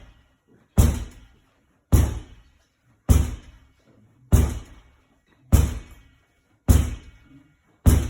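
A ball thrown against a wall in a steady rhythm: seven loud, sharp hits about a second apart, each ringing briefly as it dies away.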